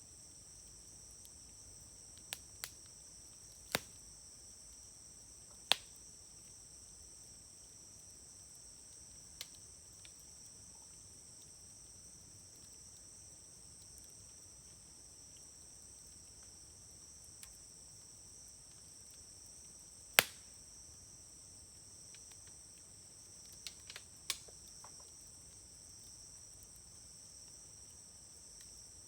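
Wood fire burning in a Uniflame fire grill, giving scattered sharp pops and crackles, the loudest about twenty seconds in, over a steady high-pitched chorus of insects.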